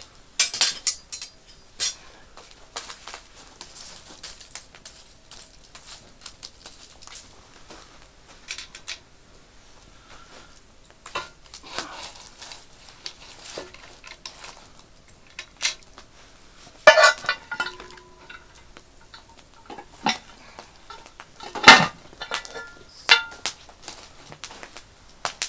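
Metal cookware clinking and knocking: scattered light clinks, with two louder metal clanks that ring briefly, about two-thirds of the way in and again near the end.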